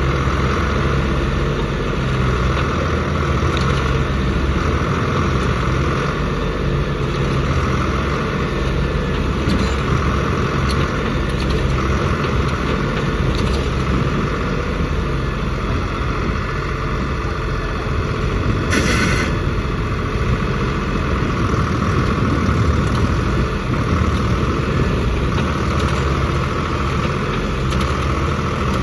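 Tractor engine running steadily throughout, with a brief burst of high, hissing noise about two-thirds of the way through.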